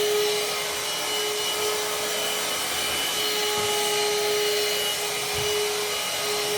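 Parkside PHSSA 20 Li C1 20 V cordless handheld vacuum cleaner running steadily: a constant motor whine over the rush of air through the nozzle.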